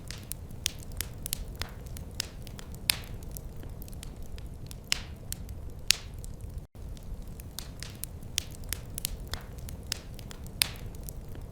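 Wood fire crackling, with irregular sharp pops and snaps over a steady low rumble of the flames. The sound cuts out for an instant a little past halfway.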